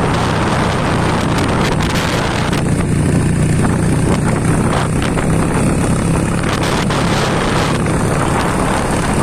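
A vehicle engine running steadily while under way, with a constant rush of wind and road noise and scattered short clicks and knocks.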